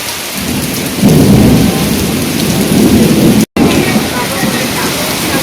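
Storm wind gusting hard against the microphone: a low rumbling buffet over a steady hiss, swelling about a second in. The sound drops out for an instant about two-thirds of the way through.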